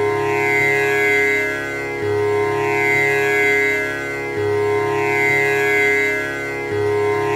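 Tanpura drone: its strings plucked one after another in a cycle that repeats about every two and a half seconds, a low string at the start of each cycle, with the buzzing, shimmering overtones that rise after each pluck.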